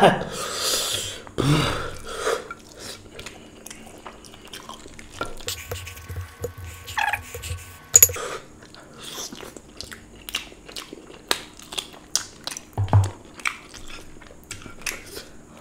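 Close-miked chewing and wet mouth sounds of a person eating curry and rice by hand: a string of short smacks and clicks, with a louder burst at the start and a sharp smack about eight seconds in.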